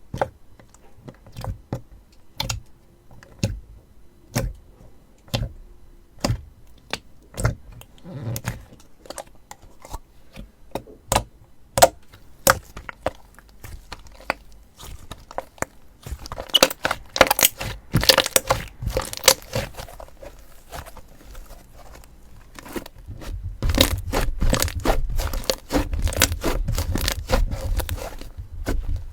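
Slime being squeezed and poked by hand, giving sharp pops and crackles. The pops come one or two a second at first, then thicken into dense crackling about halfway through and again over the last few seconds, where a low rumble joins them.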